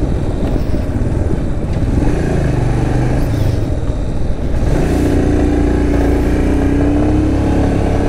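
Royal Enfield Himalayan single-cylinder engine running steadily while riding, with wind rumble on the microphone; a clearer engine tone comes in about five seconds in and slowly drops in pitch.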